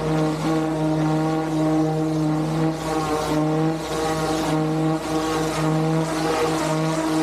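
Van-mounted pressure washer's engine running steadily at a constant pitch, with the hiss of the high-pressure water spray swelling and fading as the wand is worked.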